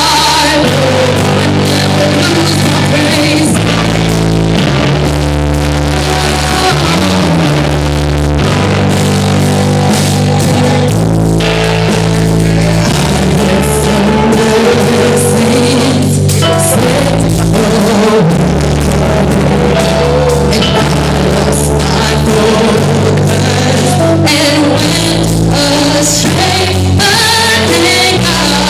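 Gospel band music with singing: sustained bass notes and chords change every second or two, with voices over them.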